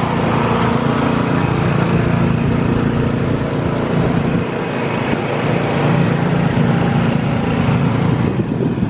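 An engine running steadily and loud, with an even, unbroken drone.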